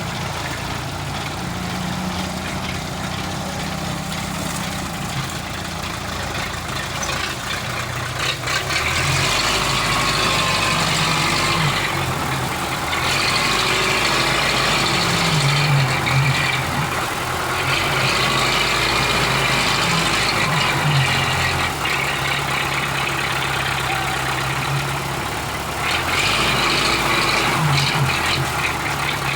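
Old Belarus tractor's diesel engine running, swelling into louder, harder-working stretches several times: about a third of the way in, again in the middle, and near the end.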